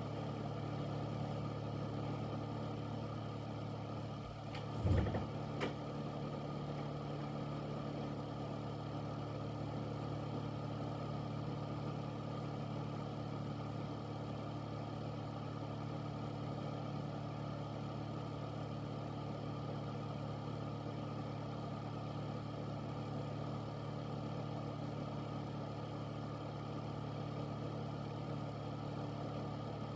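Air filter's fan running with a steady hum and whoosh. About five seconds in, a brief knock, followed by a smaller one.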